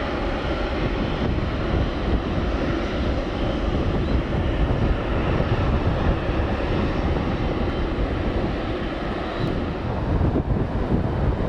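Jet engines of an Airbus A340-300 running with a steady, even rumble.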